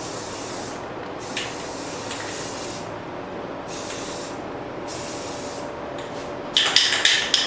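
Aerosol can of Rust-Oleum satin spray paint hissing in about four short bursts as a finish is sprayed onto forged steel, then a loud clattering rattle near the end, typical of the can being shaken with its mixing ball.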